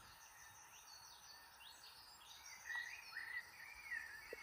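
Faint birdsong in a forest: several small birds chirping and twittering in quick high notes, busier in the second half, over a soft steady background hiss.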